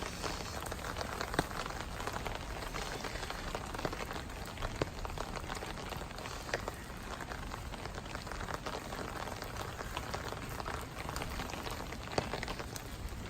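Steady rainfall, with many separate drops making sharp little taps close by.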